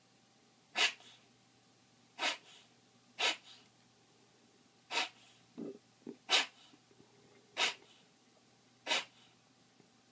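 A dog coughing in a fit of seven short, sharp coughs spaced about one to one and a half seconds apart, with two lower, shorter throaty sounds between them about halfway through.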